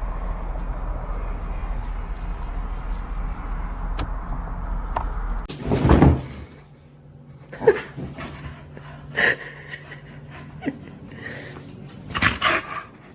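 A steady background hum, cut off by a loud sudden sound about six seconds in. Then a dog gives a few short barks and yips, with a quick run of them near the end.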